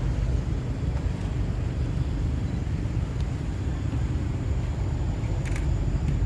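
Steady low outdoor rumble, with a couple of faint brief clicks about three and five and a half seconds in.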